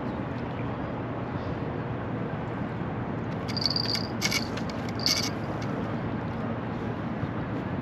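Steady outdoor wind noise on the microphone. Between about three and a half and five seconds in there are a few short, high-pitched chirps.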